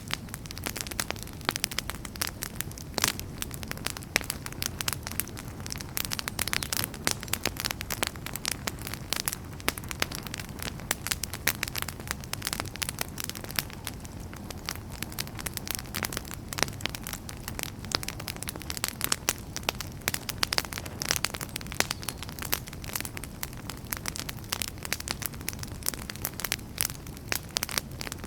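Wood fire burning in a fireplace, logs crackling and popping in dense irregular clicks over a low steady rumble of flames.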